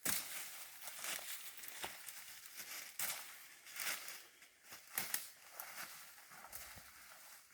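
Dry leaf litter and twigs crackling and crunching at irregular moments, as someone moves through undergrowth.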